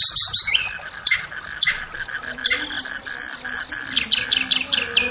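Flowerpecker (tledekan) song: a rapid chirping trill that stops just after the start, a few sharp high ticks, a thin high whistle held for about a second, then a fast run of short downward chirps near the end.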